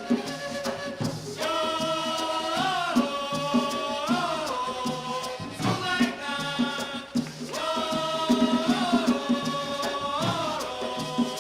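Colombian gaita music: a long-held melody with rich overtones, each phrase ending in a pitch bend, over a steady beat of hand drums.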